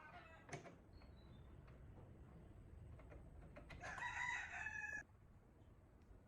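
A rooster crows once, about four seconds in, a single call of just over a second.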